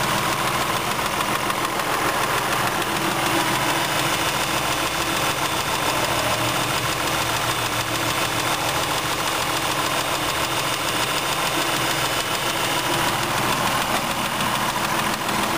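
2009 Dodge Journey SXT's 3.5-litre V6 engine running steadily, heard with the hood open.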